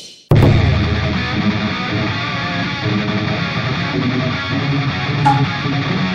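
Background rock music led by guitar, starting abruptly a moment in.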